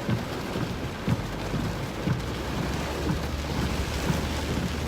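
Heavy rain pelting a moving car's windshield and roof, heard from inside the cabin as a dense patter of small hits. A steady low hum joins about a second in.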